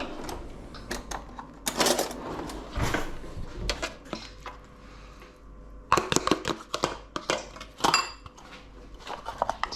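A spoon scraping and clinking against a bowl while Greek yogurt is spooned in, a series of separate knocks, with a quick run of sharp, ringing clinks from about six to eight seconds in.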